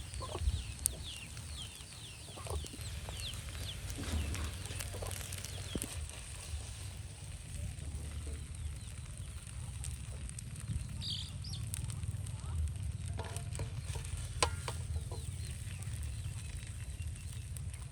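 Birds calling: a quick run of short, falling high chirps near the start and another call about eleven seconds in, over scattered sharp clicks and knocks and a steady low rumble.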